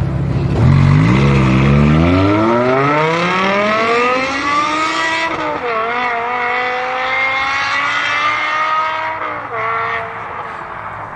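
Supercar engine accelerating hard. Its pitch climbs steadily for about five seconds, dips briefly at a gear change, holds high for a few seconds, then falls away near the end.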